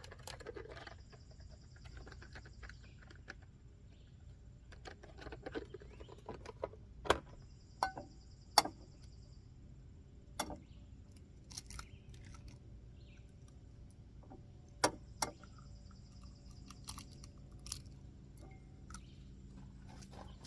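Camp-cooking clatter: scattered clicks and knocks of utensils, pans and packages being handled, loudest about halfway through. A high trill comes and goes three times in the background.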